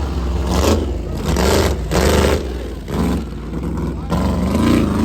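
A truck engine revving hard in repeated surges, about one a second, over a steady low rumble.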